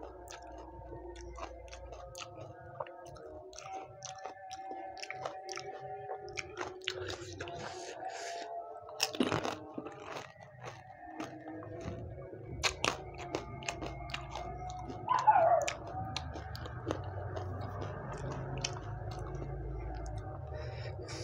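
Chewing and crunching of pani puri, crisp hollow fried puris with green chillies, with crackly bites throughout. A brief loud falling squeak comes about two-thirds of the way in.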